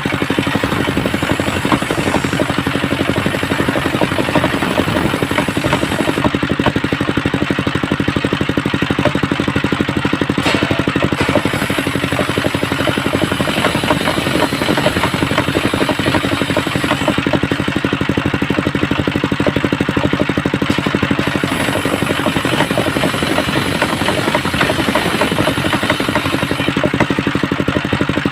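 Homemade circular saw bench running steadily on its engine, a continuous rapid pulsing drone with clatter and no pauses.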